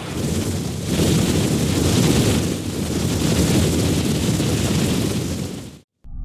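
Strong wind buffeting the microphone: a loud, rumbling rush that surges and eases, cut off suddenly near the end.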